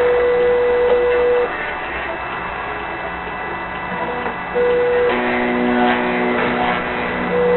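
Stepper motors of a hobby CNC machine whining at steady pitches as its axes move, the tone jumping to a new pitch every second or two, with a quieter steady stretch in the middle. Underneath runs the steady whir of the spindle drilling a printed circuit board with a 1 mm bit.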